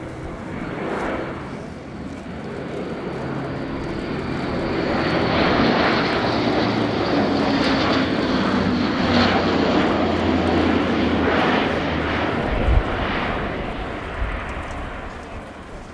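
Airbus A400M's four Europrop TP400-D6 turboprop engines and propellers in flight, a steady droning roar that swells to its loudest around the middle and fades away toward the end as the aircraft passes.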